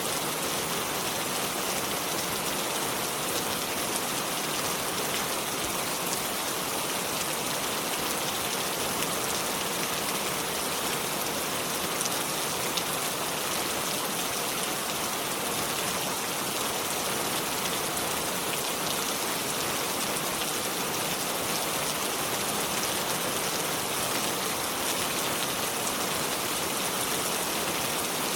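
Steady rain falling, an even hiss of many drops that neither builds nor fades.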